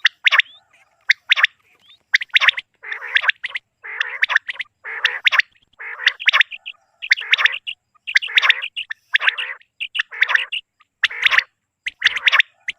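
Common quail calling: a quick, unbroken run of short, sharp calls, one after another.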